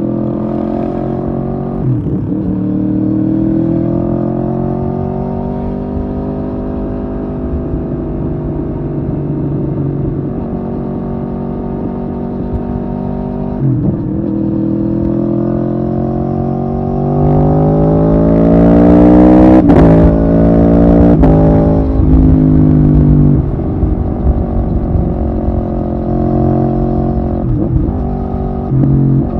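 Aprilia Tuono V4R's V4 engine under way, climbing in pitch through the gears with short breaks at the shifts about 2 and 14 seconds in. It pulls hardest and loudest about two-thirds through, then eases off.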